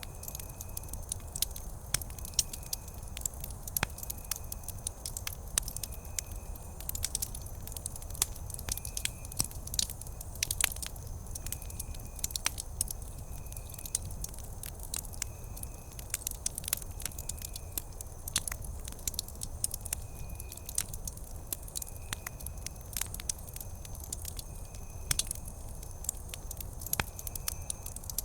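Wood campfire crackling: dense, irregular sharp pops and snaps over a low steady rumble. A faint high chirp repeats roughly once a second behind it.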